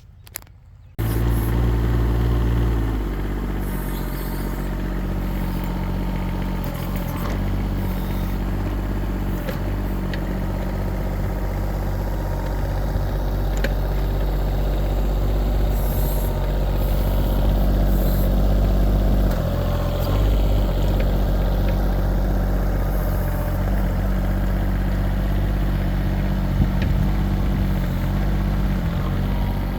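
Kubota diesel engine of a 1.6-ton mini excavator running loud and steady under trenching work, starting about a second in. Its pitch drops slightly a couple of seconds later and shifts again about two-thirds of the way through as the throttle is changed, with scattered light knocks over the engine note.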